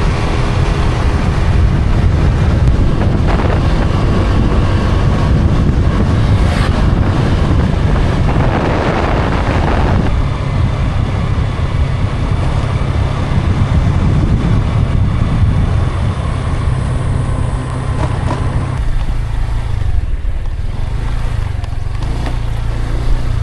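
Wind buffeting the microphone on a moving vehicle, over a steady low engine drone.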